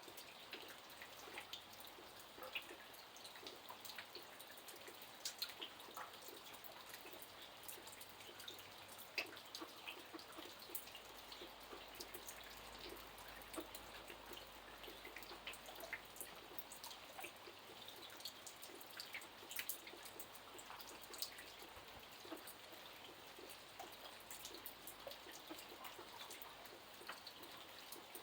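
Light rain: scattered, irregular drops and drips falling over a faint steady hiss.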